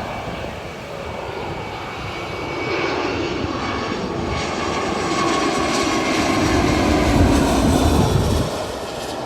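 Jetstar jet airliner on final approach, passing low overhead: its engine noise builds to a peak about seven to eight seconds in, with a whine that falls in pitch as it goes over, then fades.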